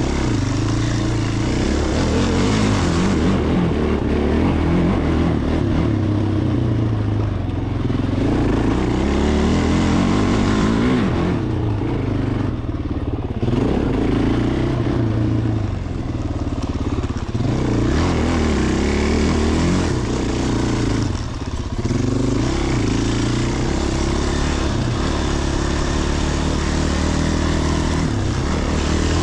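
Small off-road vehicle engine running under changing throttle, its pitch rising and falling again and again, with a brief let-off about twelve seconds in and again around twenty-one seconds.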